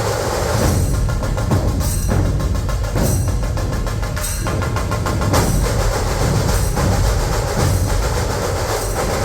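Dhol-tasha ensemble drumming: massed dhol barrel drums with rapid stick strokes on tasha kettle drums, loud and continuous with a fast, driving beat.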